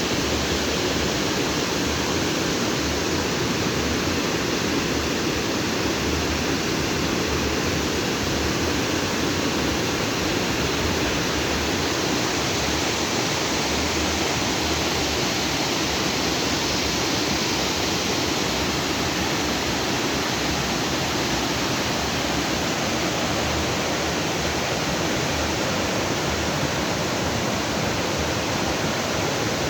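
Lake outflow stream rushing and splashing over rocks in a steady, unbroken flow.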